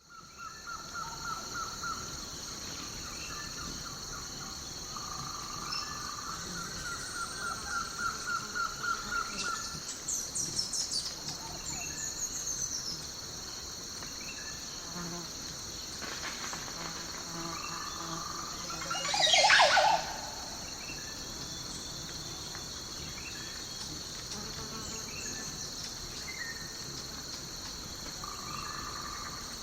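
Daytime countryside ambience: a steady chorus of crickets with birds calling over it. There are repeated trilling chirps in the first third and one louder sweeping bird call about two-thirds of the way in.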